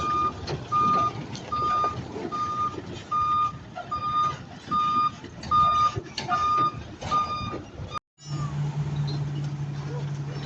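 Truck's reversing alarm beeping at an even pace, about one and a half beeps a second, over the rumble of the truck. About eight seconds in the beeping cuts off and a steady low hum takes over.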